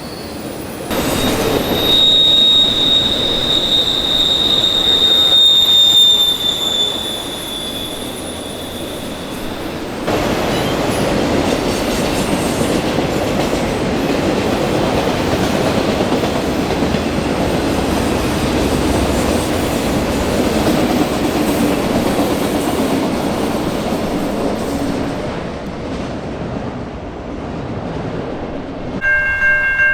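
A train passing close by. For the first several seconds its wheels squeal with one high, steady tone; after that the cars rumble and clatter steadily. Near the end, level-crossing bells begin ringing.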